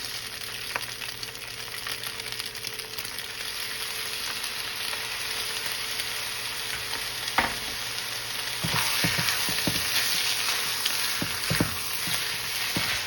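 Fried rice sizzling in a hot pan just after soy sauce is poured in, with a steady frying hiss. A utensil knocks against the pan once about seven seconds in, then repeatedly over the last few seconds as the rice is stirred and the sizzle grows a little louder.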